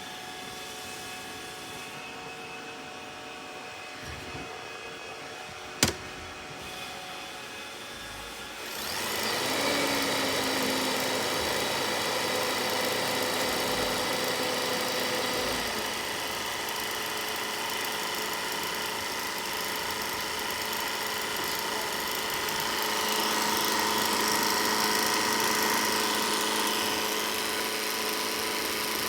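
Robot vacuum running with a low motor hum and a single sharp click about six seconds in. About nine seconds in, its motor and brushes get much louder and stay steady, whining, until just before the end.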